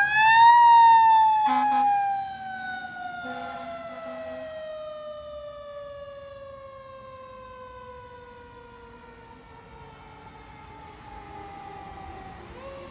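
Fire engine siren that peaks about half a second in, then slowly winds down in pitch, and begins to rise again near the end. It is loud for the first two seconds and fainter after that.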